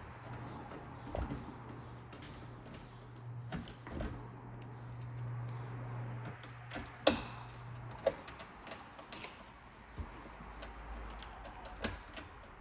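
Scattered light clicks and taps of small parts and tools being handled, with one sharper knock about seven seconds in, over a low steady hum that stops about eight seconds in.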